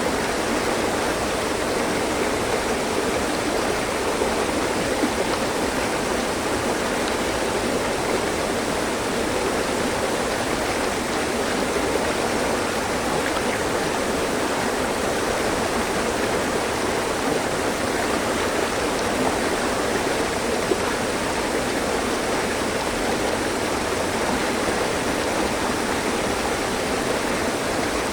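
Mountain stream: water running over rocks in a steady, even rush.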